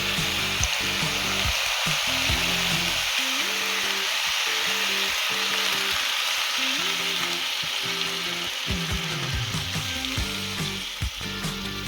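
Meat, potatoes and vegetables sizzling in a kazan just after boiling water has been poured in, a steady frying hiss. Background music with a stepping bass line plays underneath.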